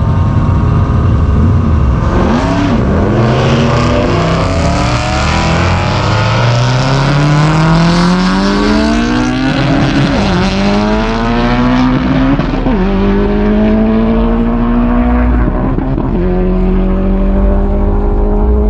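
Turbocharged Subaru STI flat-four engine pulling hard through the gears on a drag-strip pass, its pitch climbing steadily in each gear, with three upshifts that briefly drop the revs about ten, twelve and sixteen seconds in.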